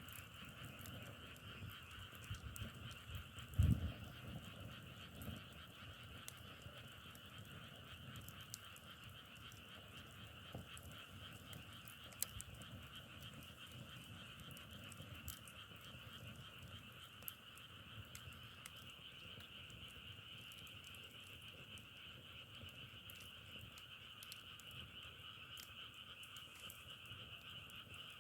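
A dense chorus of many frogs calling together, a steady massed trill in two pitch bands, with scattered faint sharp ticks and one low thump about four seconds in.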